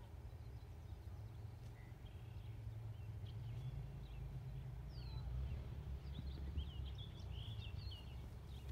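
Small birds chirping, with a run of short quick chirps in the second half, over a low steady outdoor rumble.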